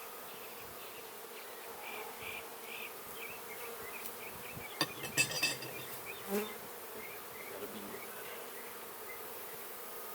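Honeybees buzzing steadily around an open hive. About halfway through comes a short run of clicks and scraping and then a knock, as the next frame is worked loose.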